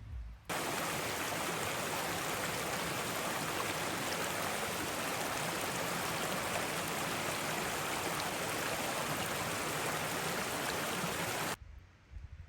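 Steady rush of flowing water from a river or waterfall, starting abruptly about half a second in and cutting off just as abruptly near the end, followed by a few low thuds.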